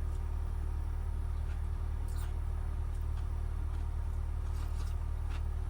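Steady low machine hum with a faint higher tone over it and a few faint clicks.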